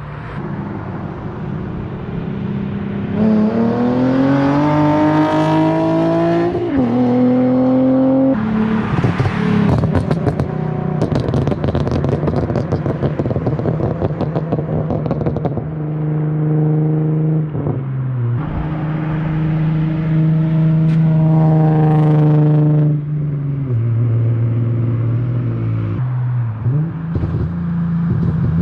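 Infiniti G37's V6 through an aftermarket ISR catback exhaust with resonated test pipes and Y-pipe, heard from inside the cabin while driving. The engine note climbs in pitch twice under acceleration, each time dropping sharply at a gear change, with steadier cruising between.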